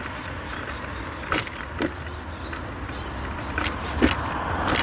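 Scooter riding along: a steady low rumble of motor and road, with about five sharp knocks and rattles.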